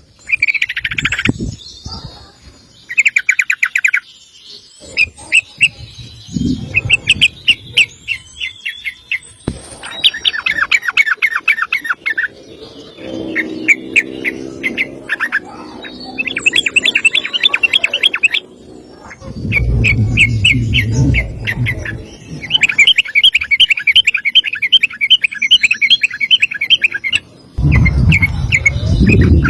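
Yellow-vented bulbul (trucukan) singing long, fast rattling runs of notes, phrase after phrase with short breaks between. A low rumble sits under the song in places.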